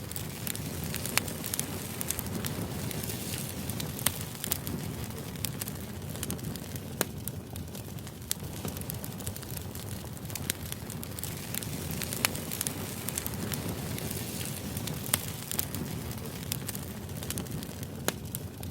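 Crackling fire ambience: a steady low rush with irregular sharp crackles and pops, a few of them louder than the rest.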